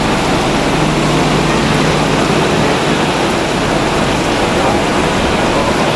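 Heavy rain and running water making a steady, loud rush, with a low engine hum underneath.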